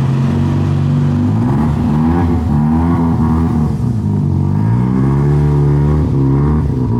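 Turbocharged 13B rotary engine of an FC RX-7 running through its oval-piped exhaust and Racing Beat muffler, engine speed rising and falling several times.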